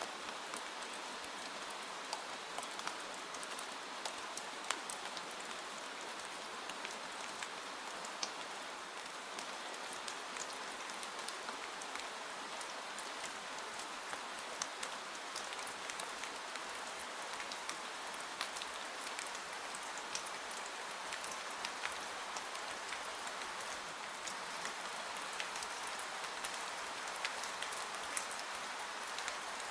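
Gentle rain falling steadily: an even hiss dotted with many small, scattered drop ticks.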